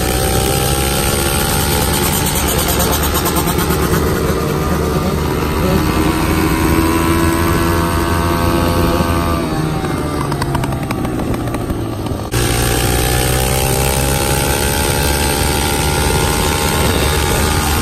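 Yamaha YZ125 two-stroke dirt bike engine running under a rider, its pitch slowly rising and falling with the throttle. There is an abrupt change in the sound about twelve seconds in.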